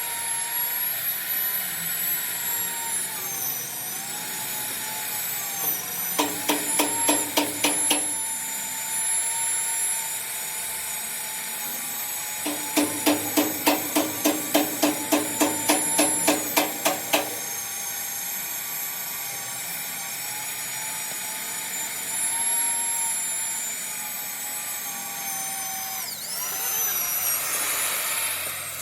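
An electric power tool motor runs with a steady high whine, its pitch dipping twice as it takes load. Two runs of rapid hammer blows on steel cut through it, about three a second: a short run, then a longer one of about five seconds.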